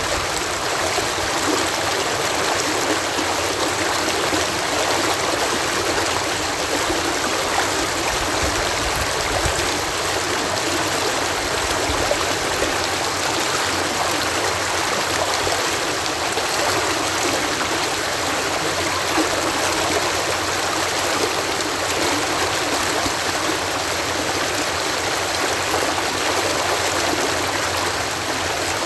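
Water cascading steadily over a canal lock: a continuous, even rush without breaks.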